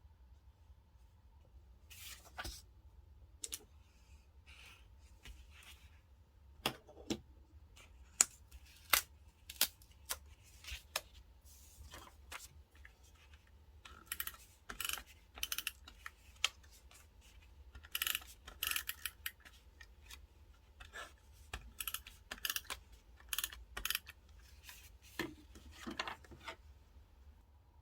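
Close-up stationery handling while decorating a paper diary: scattered sharp clicks and taps with short rustles and scrapes of paper and stickers, coming in irregular bursts.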